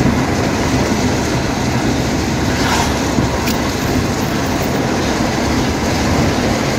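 Steady rumble of a car driving, with road and engine noise heard from inside the cabin and a single short click about three and a half seconds in.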